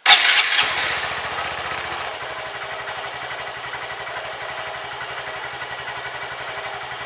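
Honda Grom MSX125's single-cylinder engine, breathing through a full Yoshimura RS2 Mini exhaust, starts with a loud burst and settles over about two seconds into a steady, even idle.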